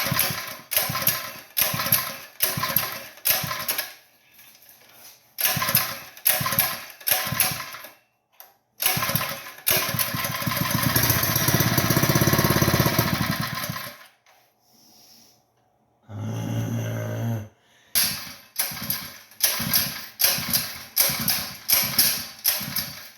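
A trash pump's small gasoline engine being cranked over and over, in quick repeated strokes, without starting. Partway through it runs unevenly for about four seconds, then dies again. The owner blames a troublesome carburetor.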